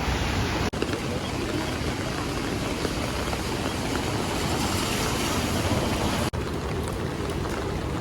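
Heavy rainstorm: a steady rush of rain and running water, in short clips cut together, with two sudden cuts in the sound.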